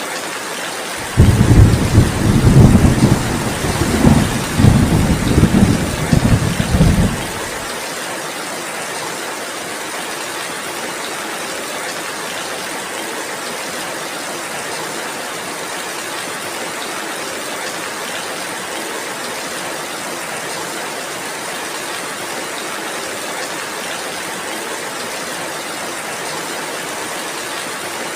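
Heavy steady rain hissing, with a rolling rumble of thunder that starts suddenly about a second in, is the loudest sound, and ends abruptly after about six seconds.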